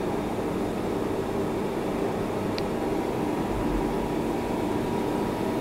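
CNC lathe running with a steady hum of motors and pumps, several steady tones over a low rumble, with a faint tick about two and a half seconds in and a short low thud a second later.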